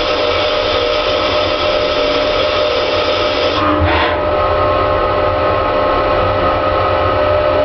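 Headman CK6130 CNC lathe running: a steady machine whine with a hiss over it. About four seconds in the hiss briefly drops and the whine shifts slightly in pitch.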